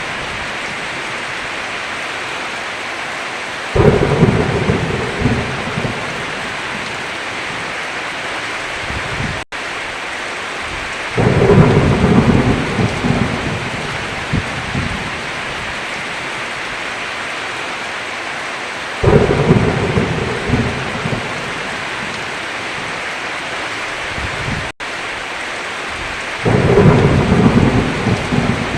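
Heavy rain falling steadily, with four rolls of thunder that each start suddenly and rumble for a few seconds, spaced about seven to eight seconds apart. Twice the sound cuts out for an instant.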